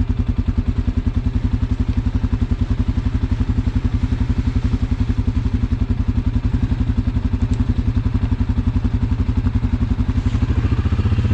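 Suzuki KingQuad ATV's single-cylinder four-stroke engine running slowly in four-wheel-drive low, an even putter of exhaust pulses. Near the end the revs pick up slightly and the pulses run together.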